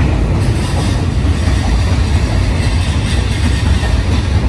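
JR East E235-1000 series electric train pulling out of the platform and moving away, its running noise a loud, steady rumble.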